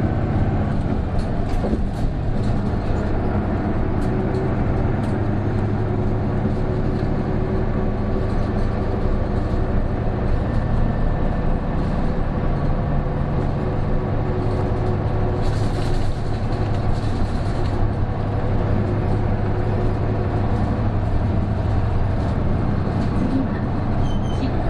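Isuzu Erga (PJ-KV234L1) city bus heard from inside the cabin while under way: its six-cylinder turbo diesel drones steadily along with road noise. A few light clicks sound early on, and a short burst of air hiss comes about two-thirds of the way through.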